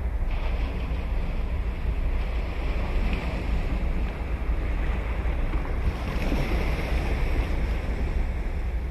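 Ocean surf breaking and washing up on a beach, a steady hiss that swells about six seconds in, with a low rumble of wind on the microphone.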